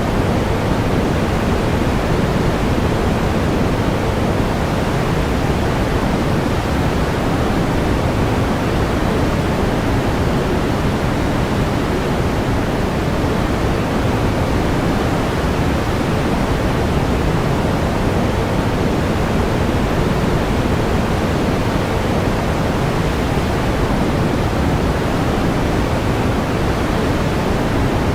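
Steady pink noise: an even, unchanging hiss, heavier in the low end and softer in the highs.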